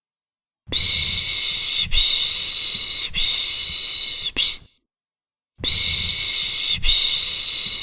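Rhythmic shushing 'pışş pışş' to soothe a baby: a series of long, even shushes of about a second each, with a short break between them. After four shushes there is a gap of about a second, then the shushing starts again.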